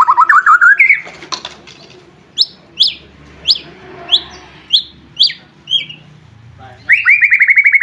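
White-rumped shama (murai batu) singing: a fast rising trill, then a run of sharp down-slurred whistles about two a second, and another fast trill near the end.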